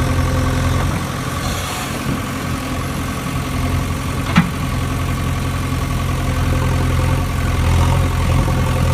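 A motor running steadily with an even hum, with a single sharp click about four and a half seconds in.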